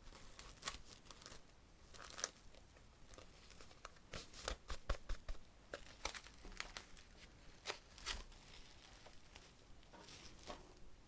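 Packaging crinkling and tearing in irregular short crackles, with a denser run of crackles about halfway through, heard close-up.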